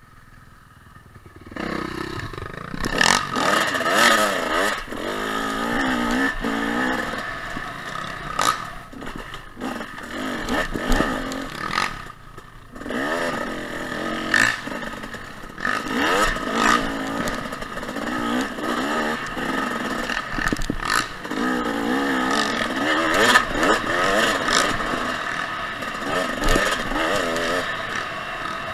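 Dirt bike engine revving up and down again and again as it is ridden, with scattered sharp knocks and clatter. It starts loud about a second and a half in.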